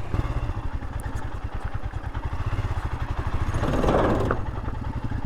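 Royal Enfield Himalayan 411's single-cylinder engine running at low revs with a quick, even thumping beat, and a brief rushing noise about four seconds in.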